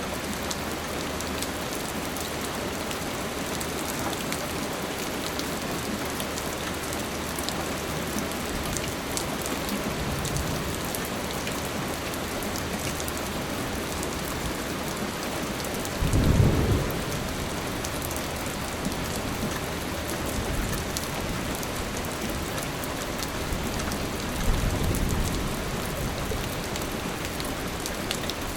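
Steady rainfall hissing, with a low rumble of thunder a little past halfway and a second, weaker rumble near the end.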